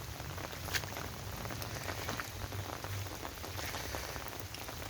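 Light rain falling: an even hiss dotted with small drop ticks, with one sharper tick a little under a second in.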